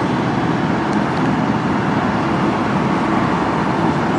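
Steady road traffic noise: motor vehicles running and passing, with no single event standing out.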